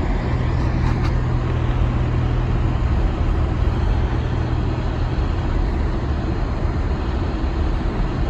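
A vehicle driving slowly on a snow-covered road, heard from inside the cabin: a steady low engine hum over continuous road noise.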